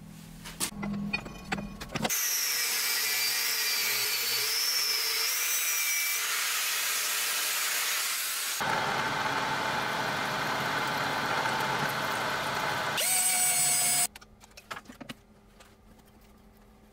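A power tool runs loudly in three stretches that change abruptly from one to the next, with a wavering high whine over the first. It stops suddenly about fourteen seconds in, and scattered light clicks and knocks follow.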